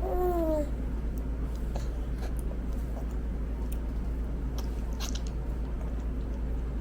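A short voice sound falling in pitch, then scattered light clicks and taps of spoon and dishes at a toddler's meal, over a steady low hum.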